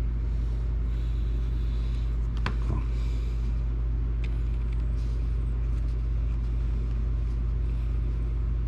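Steady low hum of background noise, with a few light clicks and taps of a small screwdriver and tiny screws on the Switch console's plastic shell, the sharpest about two and a half seconds in.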